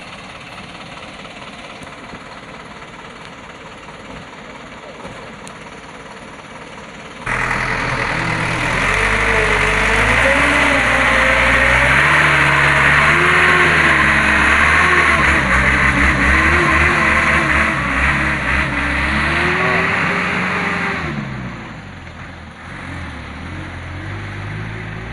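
Truck engine: running quietly at first, then from about seven seconds in loud and revving hard, its pitch rising and falling for some fourteen seconds, before easing back down near the end.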